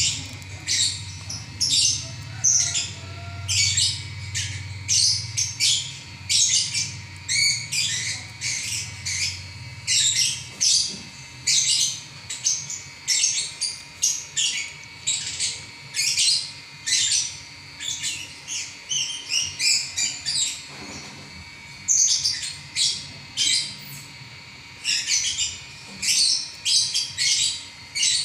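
Lovebird singing a long unbroken run of rapid, high-pitched chattering chirps and squawks, the continuous song that bird keepers call ngacor.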